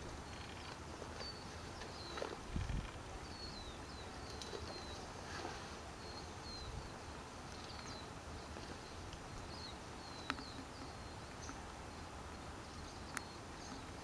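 A small bird giving short, high chirps, each dropping in pitch, about one or two a second, over a steady background hiss. A low thump about two and a half seconds in and two sharp clicks near the end.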